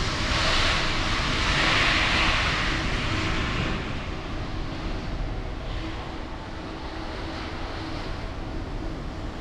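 Road and engine noise of a vehicle driving in city traffic: a steady rumble, with a louder hiss that swells over the first few seconds and then dies back.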